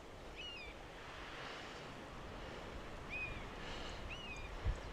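Wind moving through forest trees with a bird calling a short chirped note three times. A low thump sounds near the end.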